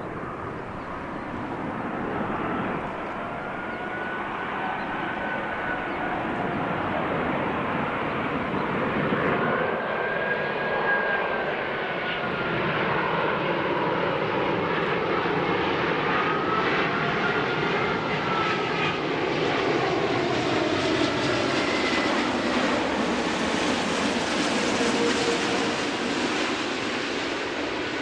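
Jet airliner's engines passing low overhead on approach to land: a steady roar that builds over the first dozen seconds and then holds, with whining engine tones that rise and fall in pitch as it goes by.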